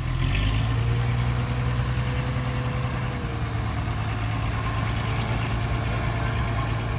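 Engine of a heavy earthmoving machine running at a steady idle, a little louder for the first three seconds.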